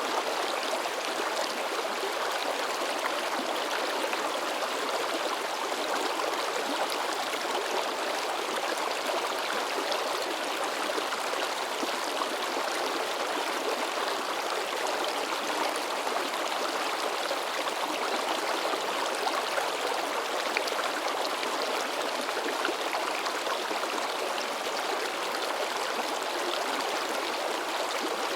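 A shallow mountain stream splashing and babbling steadily over rocks.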